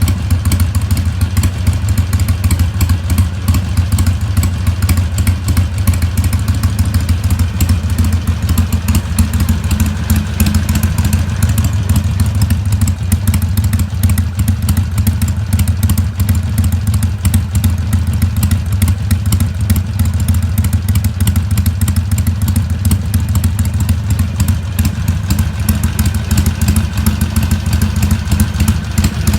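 Harley-Davidson Sportster XL883N's air-cooled V-twin idling steadily through Cycle Shack 3-inch slip-on slash-down mufflers, a loud, even exhaust pulse with no revving. The idle is tuned to 800 rpm with a Screamin' Eagle Super Tuner and breathes through a Screamin' Eagle Stage I air cleaner.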